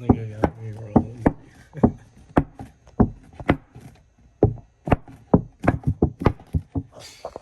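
A series of sharp knocks at an uneven pace, roughly two a second.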